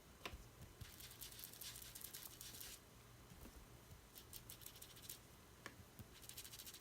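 Faint scratchy rubbing of an applicator brushing and dabbing across paper in quick strokes, a run of about two seconds early on, then shorter runs later, as the bright paper is coated to distress and dull it.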